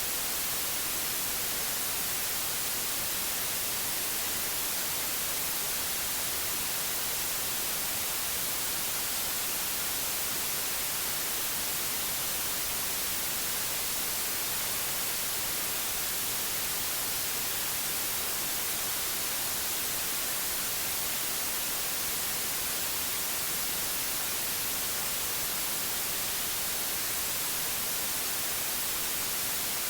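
Steady white noise: an even, unbroken hiss, brightest in the high range.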